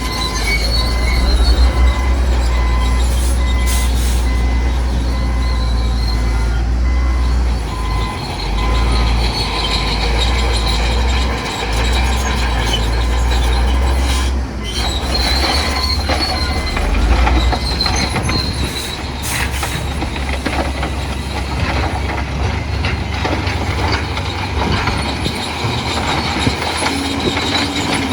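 Crawler bulldozer working: a deep diesel rumble under the squeal and clatter of its steel tracks, with a few sharp knocks. The rumble eases about two-thirds of the way through.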